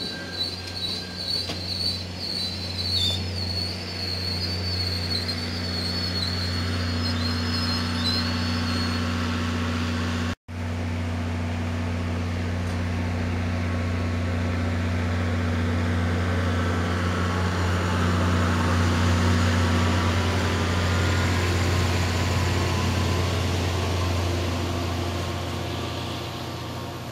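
MBTA commuter train passing close by: the coaches' wheels squeal high and wavering for the first several seconds over the rumble of the rolling cars and a steady low hum from the diesel locomotive. The sound cuts out for an instant about ten seconds in, then the train noise grows louder as the locomotive passes near the end and starts to fade.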